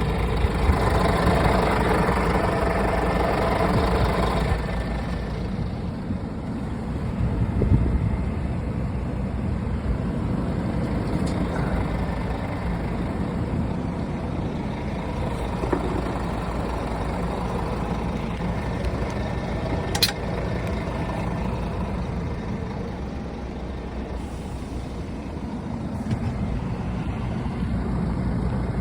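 Scania R450 truck's six-cylinder diesel engine running steadily, a little louder for the first few seconds, with one sharp click about two-thirds of the way through.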